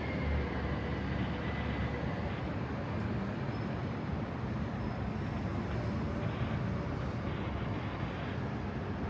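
Steady city street ambience of vehicle traffic going by. A faint high whine fades out in the first couple of seconds.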